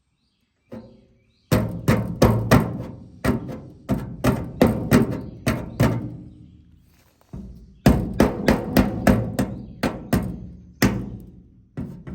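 Hammer tapping on the trim pieces of a pickup truck bed to pop them off: a rapid, uneven run of sharp metal blows, each ringing briefly, with a short pause about six and a half seconds in before the blows resume.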